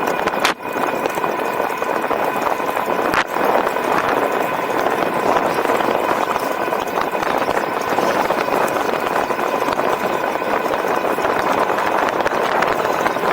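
E-bike on the move: steady wind and road rush, with a thin, steady whine from the electric motor running through it.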